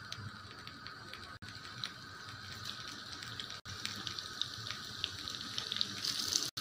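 Breaded potato and chicken cutlets frying in hot oil in a pan: a light sizzle with scattered small crackles and pops, growing busier in the second half as more cutlets go in.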